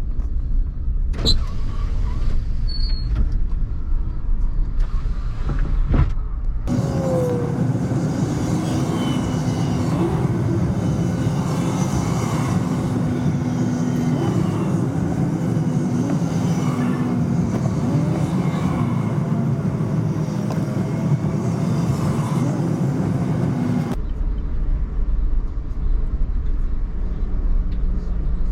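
Road vehicle driving, a steady low rumble of engine and road noise in the cabin. From about seven seconds in to about twenty-four seconds it switches abruptly to a brighter, busier traffic-like noise with a steady hum and a few gliding tones, then drops back to the low rumble.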